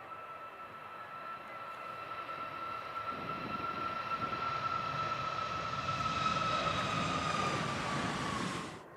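Boeing 777's GE90 turbofan engines running at high power: a high steady whine over a low rumble that grows louder, the whine dipping slightly in pitch near the end before the sound cuts off suddenly just before the end.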